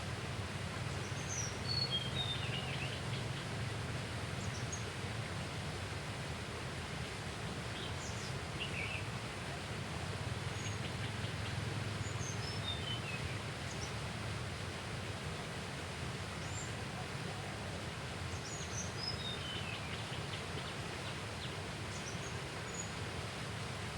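A bird calling over a steady low rushing background: three times it gives a quick run of high notes stepping down in pitch, with short single chirps in between.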